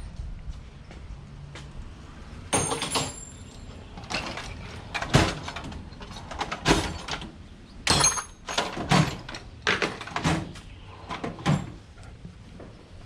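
Irregular clanks and knocks of tools and parts being handled, about ten over some nine seconds, two of them with a brief high metallic ring.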